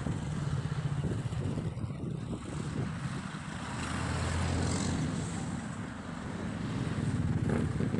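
Motor vehicles crossing a bridge close by: a steady low engine-and-tyre rumble that swells about halfway through and again near the end as vehicles pass.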